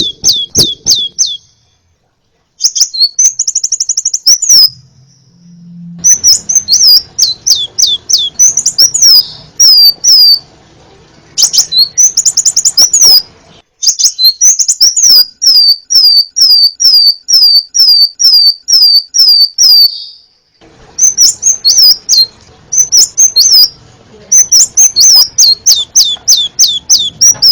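Crimson sunbird singing: rapid runs of high, downward-sweeping notes in phrases broken by short pauses, with a brief buzzy trill near the start.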